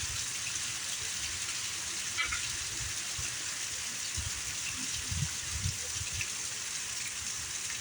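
Heavy rain pouring down in a steady hiss, with a few low thumps about four to six seconds in.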